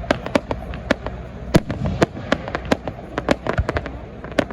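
Fireworks display going off: a rapid, irregular string of sharp bangs and crackling pops, several a second.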